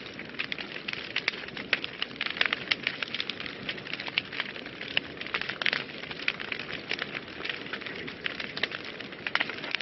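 Wood fire burning in a fireplace, crackling and popping with many sharp, irregular snaps over a steady hiss.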